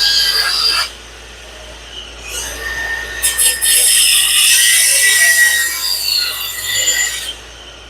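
Angle grinder with a cutting disc cutting through metal: a short cut that stops about a second in, then a longer cut of several seconds with a high whine running through it.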